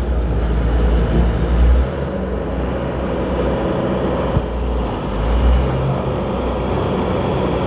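A heavy engine running steadily with a deep rumble that swells and eases a couple of times.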